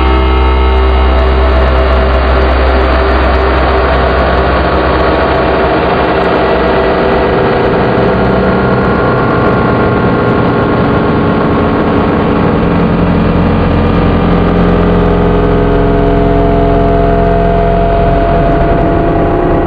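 METSÄÄN Dirty Drone #21, a handmade three-oscillator drone/noise synth with a resonant low-pass filter, playing a loud, dense, steady drone: many buzzing tones stacked over a strong low hum. The tones shift slowly, and the deep hum thins out about a third of the way through before coming back.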